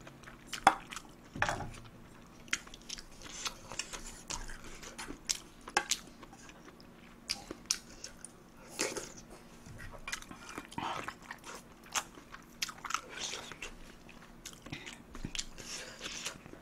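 Close-miked chewing and mouth smacks of someone eating tuna kimchi fried rice, with scattered short clicks as the spoon meets the aluminium pot.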